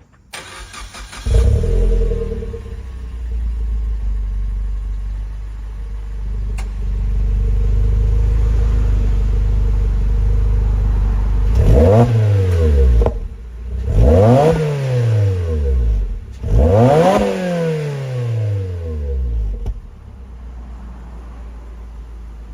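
Suzuki Swift Sport ZC32S's 1.6-litre naturally aspirated four-cylinder engine, through a Rosso Modello COLBASSO Ti-C aftermarket exhaust. The starter cranks it for about a second, the engine catches with a loud flare and settles into a steady idle. About halfway through it is revved three times in quick blips, each rising and falling in pitch, then it drops back to a quieter idle near the end.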